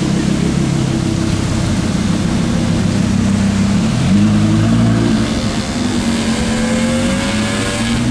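Audi R8's 5.2-litre V10 running at low revs, then revving up sharply about four seconds in as the car pulls away.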